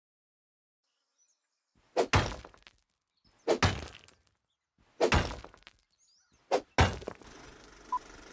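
Four sharp impact hits, about a second and a half apart, each dying away within half a second; a faint steady hiss comes in with the last one.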